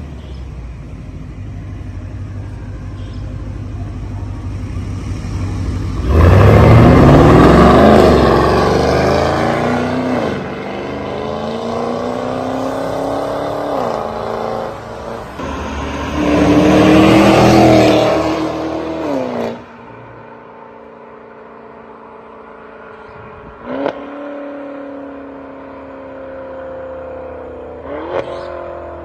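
Mercedes-Benz W222 S-Class 4.0-litre twin-turbo V8 through a valved aftermarket exhaust, accelerating hard about six seconds in with rising pitch and gear changes. A second loud pull follows, then the throttle is lifted and the engine settles to a quieter steady drone, with two short sharp bursts near the end.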